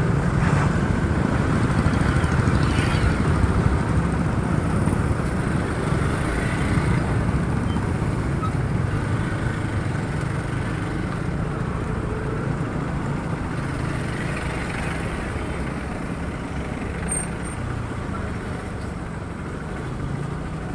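Motorcycle on the move, recorded from a phone mounted on the bike: steady engine, road and wind noise, getting slightly quieter toward the end.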